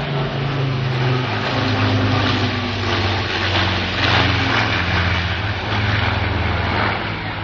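Piston aero engines of a Battle of Britain Memorial Flight warbird droning as it flies past on its display, the pitch shifting slightly, loudest about four seconds in.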